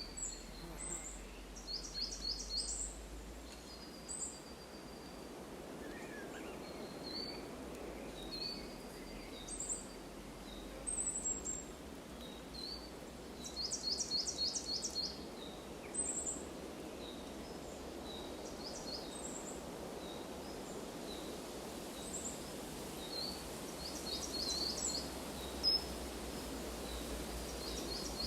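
Wild birds calling: scattered short high chirps and three quick trills of rapidly repeated notes, over a steady low hiss of outdoor ambience.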